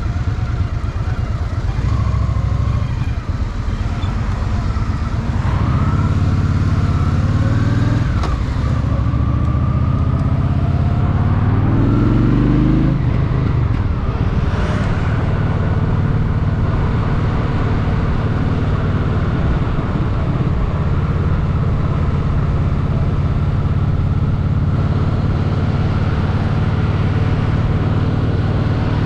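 Honda Shadow VT750's V-twin engine under way, rising in pitch twice in the first half as it accelerates, with a drop after each rise as it shifts, then running steadily at a constant speed.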